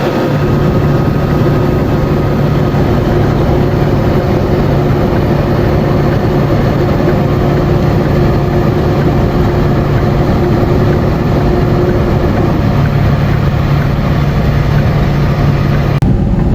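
Steady drone of a heavy vehicle's engine and road noise, heard while driving, with several held tones over a rushing noise. Near the end the higher sounds drop away abruptly.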